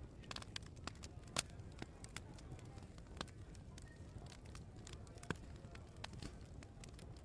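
Open wood fire crackling, with irregular sharp pops and snaps, the loudest about a second and a half in and again about five seconds in, over a low background murmur.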